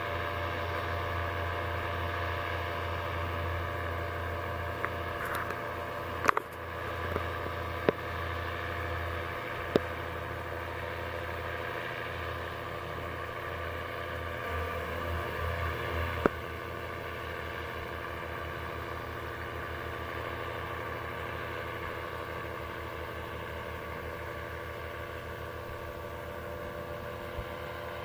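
Paramotor engine and propeller running steadily in flight, a constant even drone. A few sharp clicks break in, four times in the first half.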